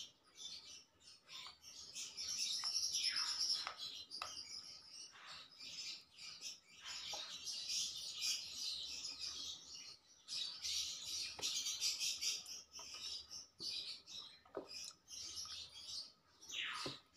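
Small birds chirping and twittering continuously, with a few calls sliding down in pitch.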